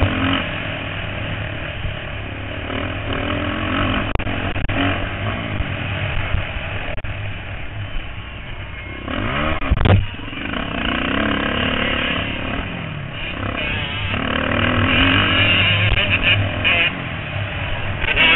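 Several motocross bikes racing around a track, their engines revving up and dropping back through gear changes. One bike passes close about nine to ten seconds in, loud, with its pitch sweeping.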